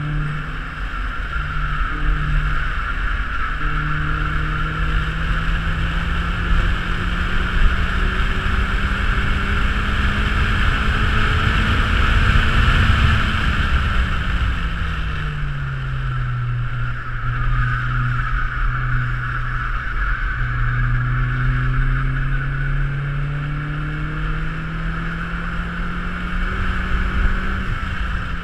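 Opel Speedster Turbo's 2.0-litre turbocharged four-cylinder engine under way, heard from the open cockpit. Its pitch climbs slowly for about thirteen seconds, drops as the car slows, holds low, then climbs again before falling away right at the end. A steady rushing noise runs over it.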